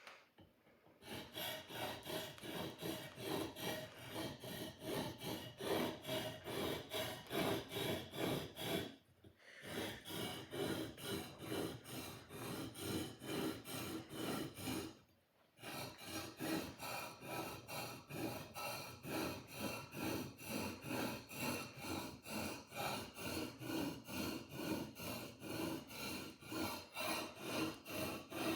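A sword blade being sharpened with rapid back-and-forth scraping strokes, about three a second, stopping briefly twice.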